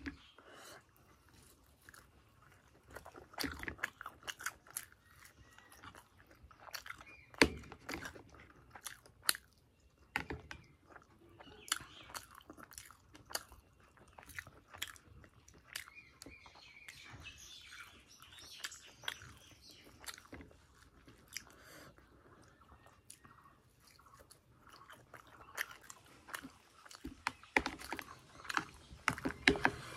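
Close-up eating sounds: fried suji (semolina) puri being bitten and chewed, with irregular small crisp clicks and mouth noises, busiest near the start and again near the end.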